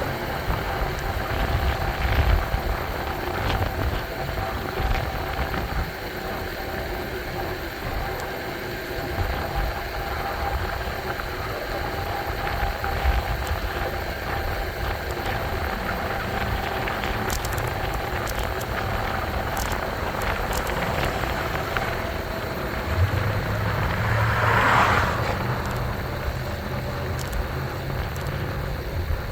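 Steady wind and road noise from an e-bike under way, with a faint steady whine running under it. A vehicle passes, loudest about 25 seconds in.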